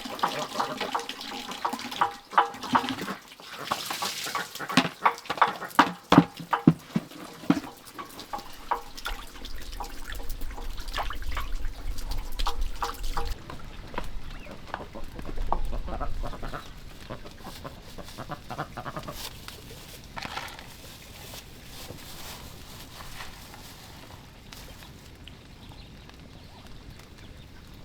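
Water splashing and sloshing as fish are washed by hand in a basin, with a run of knocks and clatter through the first several seconds; it grows fainter in the second half.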